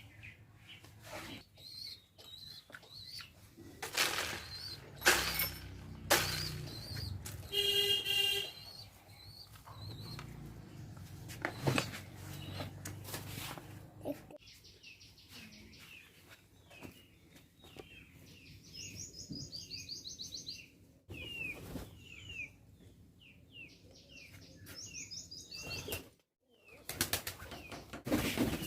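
Birds flapping their wings among scattered knocks and rustles, then many quick, high chirps with a few short trills from about halfway through.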